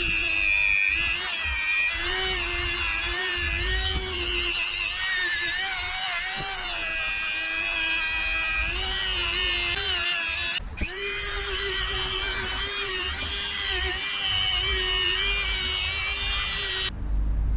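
Electric drill-type power tool running continuously, its whine wavering up and down in pitch as the load on it changes, with a brief break about two-thirds of the way through.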